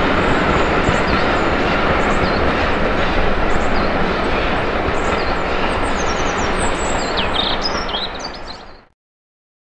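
A train of railway coaches running on the rails: a steady loud rumble of wheels on track with faint high squeaks above it. It fades out quickly about eight and a half seconds in.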